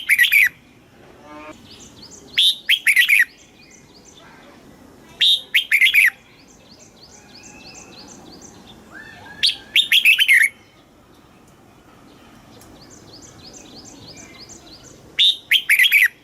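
Red-whiskered bulbul singing: five short, loud, quick-warbling phrases a few seconds apart, with fainter rows of repeated chirps in between.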